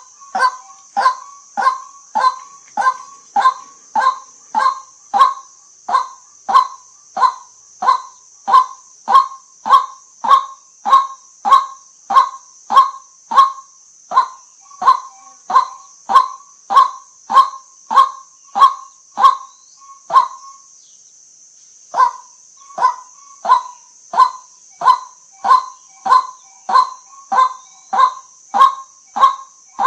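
White-breasted waterhen calling a long, regular run of short calls, about two a second, with a pause of about a second and a half roughly two-thirds of the way through. A steady high hiss runs underneath.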